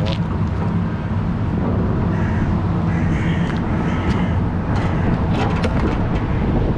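An engine running steadily at an even speed, with a few light clicks.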